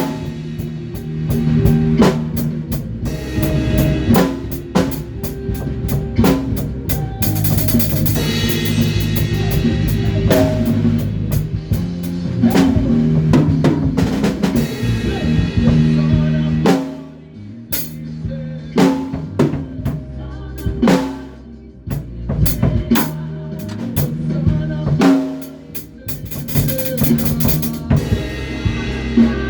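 A band playing live: a drum kit with bass drum, snare and rimshots over held bass guitar notes. The music drops back briefly a few times in the second half.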